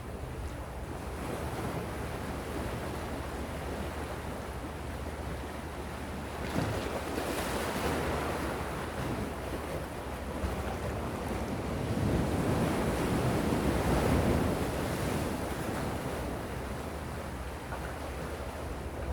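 Gentle sea waves washing onto the shore in a steady wash of surf, swelling twice: about a third of the way in, and more strongly around two-thirds through.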